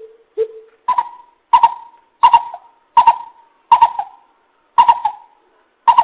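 Greater coucal (bìm bịp) giving its hooting call, played as a lure call: a run of about nine deep hoots, roughly one every two-thirds of a second. The first few are lower, and from about a second in they are pitched higher.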